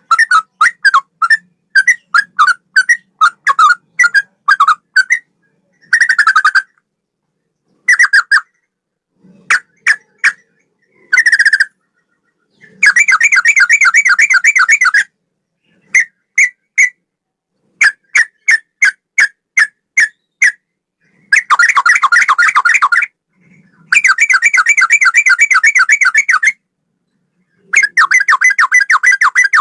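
Sooty-headed bulbul (trucukan) singing in a style reminiscent of a straw-headed bulbul. Short separate whistled notes alternate with several fast rattling runs, each lasting two to three seconds.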